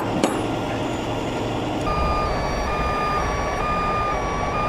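A truck engine running, and about two seconds in a truck's reversing alarm starts: one unbroken tone that steps back and forth between two close pitches about every half second.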